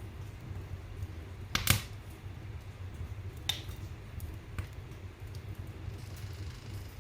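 Wood fire burning in a fireplace: a steady low rumble of flames with sharp crackles and pops, the loudest a double snap under two seconds in, and smaller snaps about three and a half and four and a half seconds in.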